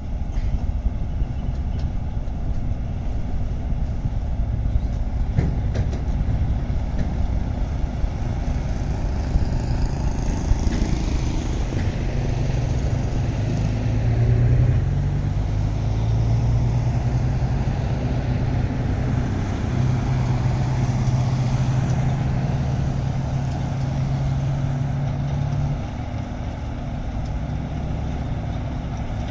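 Diesel engine of heavy earthmoving machinery running steadily, revving up about a third of the way in and holding higher revs under load before dropping back to a lower note near the end.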